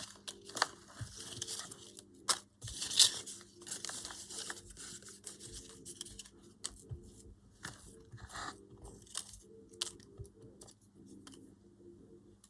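Paper scraps being handled and rustled, with irregular crinkling and tearing-like bursts that thin out near the end.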